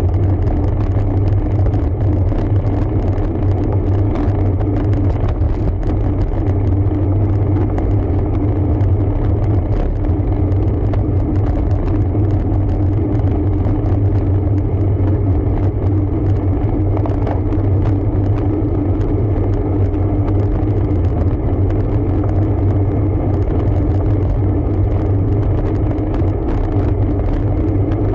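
Steady low rumble of a road bike in motion: tyre and wind noise on a ride recording, unchanging throughout.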